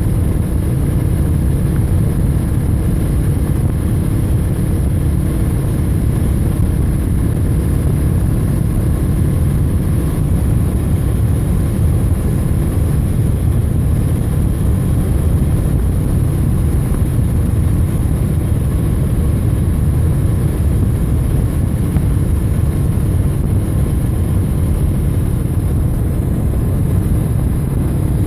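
Steady, loud rumble of wind and road noise from a moving bike, with a faint even hum running under it and no change in pace.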